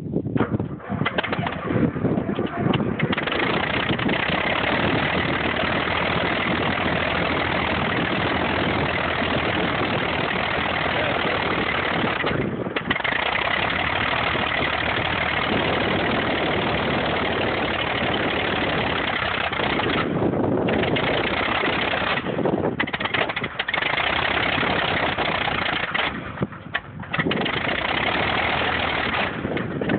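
A Stinson light aircraft's piston engine and propeller running on the ground, on the first run of a brand-new engine. The sound builds over the first few seconds, then holds steady, dropping away briefly several times.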